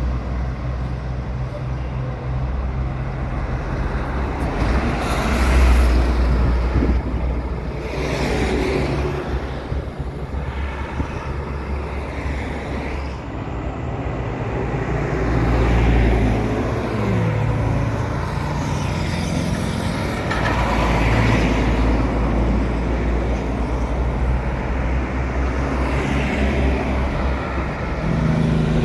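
Road traffic: a heavy vehicle's engine drones steadily while other vehicles pass, swelling up and fading several times.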